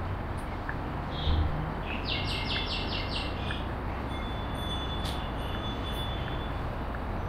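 A small bird calling: a quick run of about six high chirps, then later a thin steady whistled note, over a steady outdoor background hiss.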